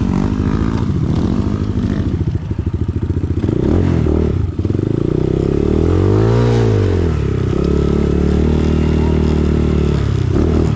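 Dirt bike engine running under varying throttle, its pitch rising and falling, with one big rev up and back down about six seconds in, then a steadier pull.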